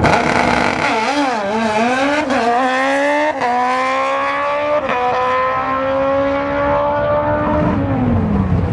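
A drag racer's engine pulling hard down the strip, its pitch climbing through three quick upshifts, then falling near the end as the throttle is closed.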